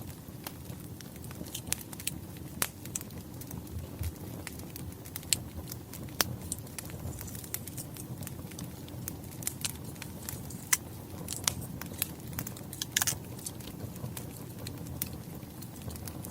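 Wood fire crackling: a steady low rumble with irregular sharp pops and snaps, a quick run of them about 13 seconds in.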